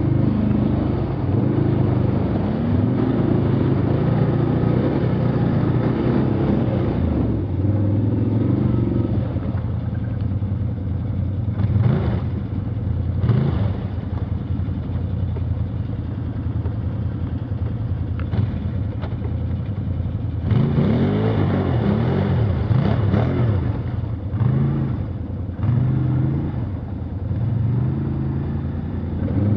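Motor vehicle engine running while driving, its pitch rising and falling with speed, with occasional short clatters.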